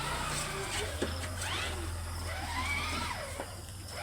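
Ride-on toy car's electric motor running with a steady low hum. High-pitched sounds rise and fall above it.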